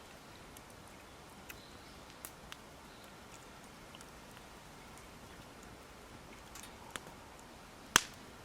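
Wood campfire crackling: scattered sharp snaps and pops over a low steady hiss, with one much louder snap near the end.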